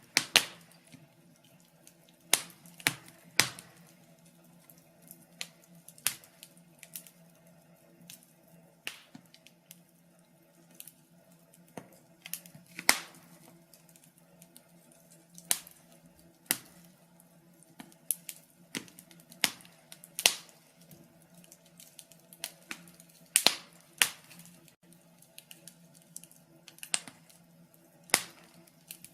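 Wood fire crackling in a fireplace: irregular sharp pops and snaps, some loud and many faint, over a faint steady low hum.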